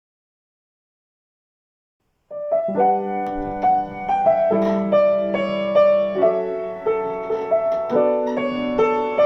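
Dead silence for about two seconds, then solo piano background music begins and plays a gentle melody over steady chords.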